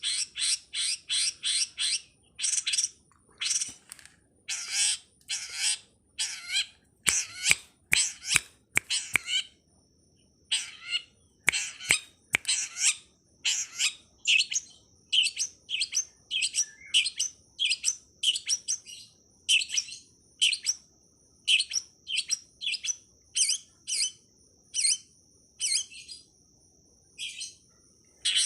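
Long-tailed shrike (cendet/pentet) giving a long series of short, harsh chattering calls, about two a second, each rough and scratchy rather than clear. From about ten seconds in, a steady high thin tone runs beneath the calls.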